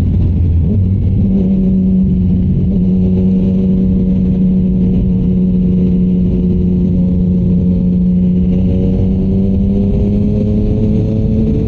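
Yamaha MT-09's inline-three engine running at a steady speed under way, its pitch rising as it accelerates in the last few seconds.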